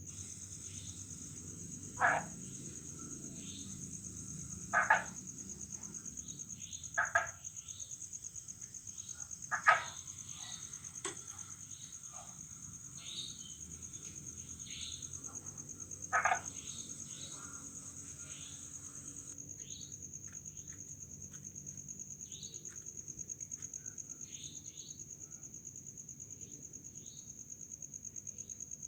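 Night chorus after rain: crickets trill steadily and high, part of the trill dropping out about two-thirds of the way in, while frogs give five loud, short croaks and many fainter chirps.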